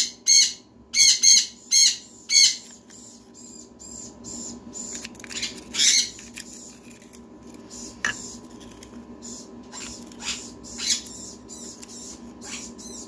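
Baby sun jenday conure squawking, a hungry chick calling for food: a quick run of loud, shrill calls in the first two and a half seconds, then softer, scattered calls.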